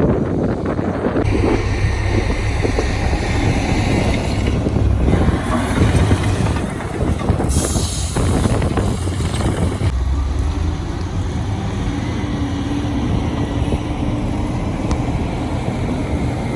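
Heavy diesel construction machinery running, a deep steady engine rumble with rougher stretches, and a short hiss about eight seconds in.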